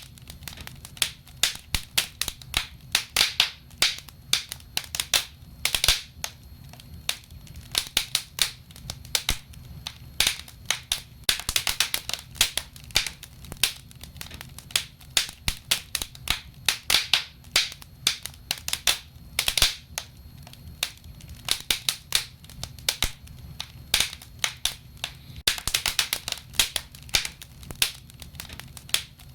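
Wood fire burning in a fireplace, crackling and popping irregularly with several sharp snaps a second over a low rumble.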